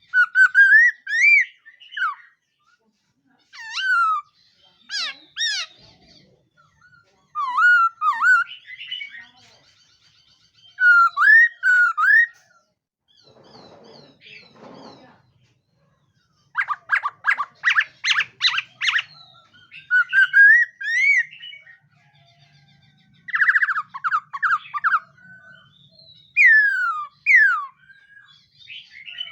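Laughingthrush (khướu mun) singing: bursts of loud whistled phrases of rising and falling notes, with a quieter harsh stretch near the middle and a fast run of repeated notes just after it.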